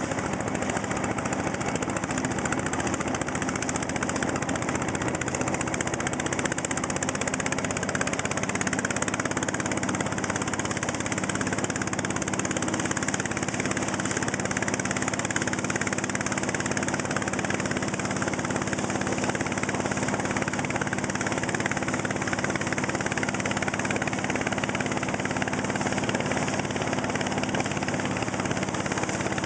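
Long-tail motor boat engine running steadily at an even pitch, with a constant hiss of rushing air and water.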